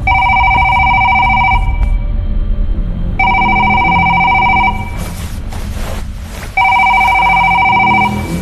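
Telephone ringing: an electronic two-tone ring in three bursts of about a second and a half each, with pauses of similar length between them. A low drone runs underneath, and a brief noisy whoosh comes in the second pause.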